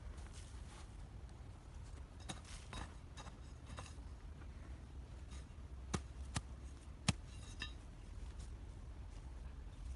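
Light clicks and taps scattered over a low, steady rumble, with three sharper clicks about six to seven seconds in.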